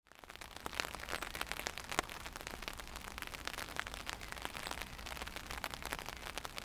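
Light rain: many separate drops striking a nearby surface in a dense, irregular run of sharp ticks.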